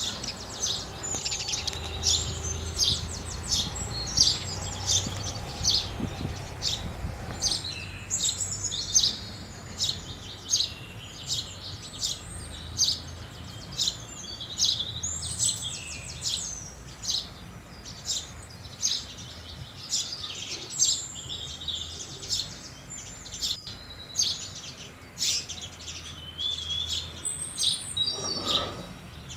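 House sparrows chirping continually, many short chirps repeating and overlapping.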